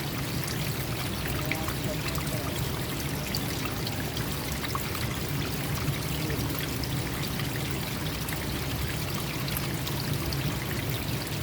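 A stream flowing steadily, with water pouring and trickling and many small splashes.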